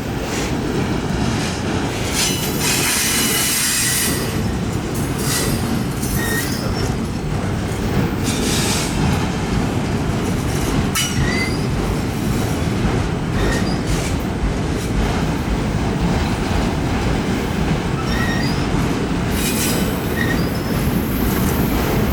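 Freight cars of a CPKC mixed freight train rolling past on the rails with a steady low rumble. Short high wheel squeals chirp now and then, with a louder stretch of high screech a few seconds in and another near the end.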